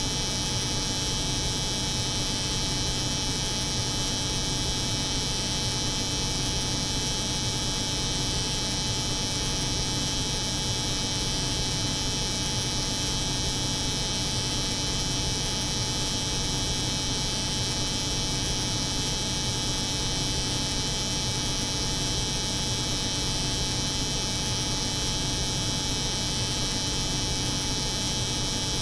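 A steady, unchanging layered drone: the hum of a cold room's refrigeration machinery mixed with an electric hair clipper buzzing continuously.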